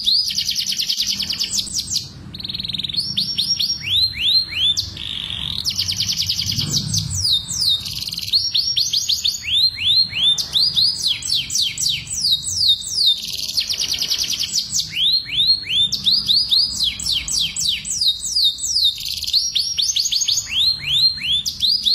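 Domestic canaries singing mating song: phrase after phrase of fast, high trills made of repeated falling notes. This breeding-condition song is used to bring other canaries into the mood to pair and mate.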